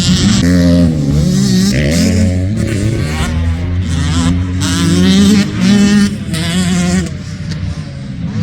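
Motocross dirt bike engines revving up and down over and over as the riders work the throttle and shift, with more than one bike heard at once. The sound eases off a little near the end.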